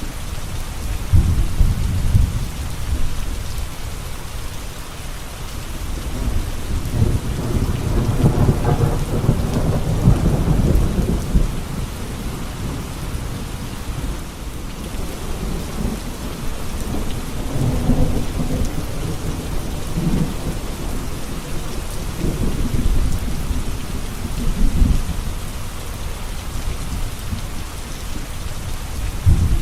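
Steady rain falling, with thunder rolling in several low swells: around two seconds in, a longer roll from about seven to eleven seconds, and more near eighteen and twenty-four seconds.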